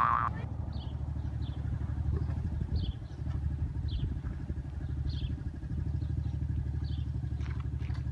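A small dirt bike engine running steadily with a fast, even exhaust pulse.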